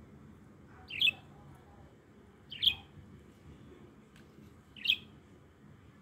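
Small caged pet bird giving three short, sharp chirps, about two seconds apart.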